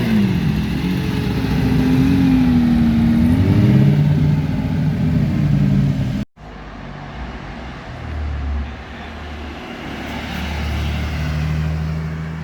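A classic rally car's engine revving, its pitch rising and falling. About six seconds in the sound cuts off abruptly and a quieter engine takes over, running steadily at a low pitch.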